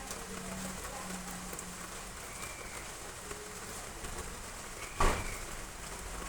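Heavy rain falling steadily, with one sharp knock about five seconds in.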